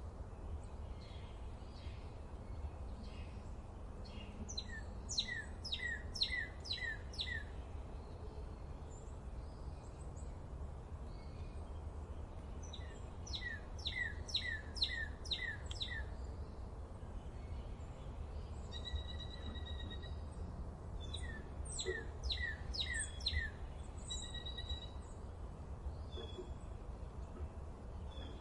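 Forest birdsong: one bird repeats a phrase of five or six quick notes, each sweeping down in pitch, three times, about eight seconds apart. Another bird gives short, steady held notes between the phrases, over a constant low background rumble.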